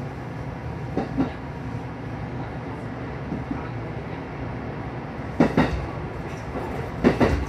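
Local electric train running, heard from inside the carriage: a steady low rumble with paired clacks of the wheels over rail joints, about a second in and twice near the end.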